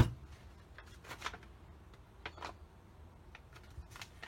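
Light handling of craft materials on a table: a sharp knock at the start, then a few faint clicks and rustles of paint pots and paper being moved.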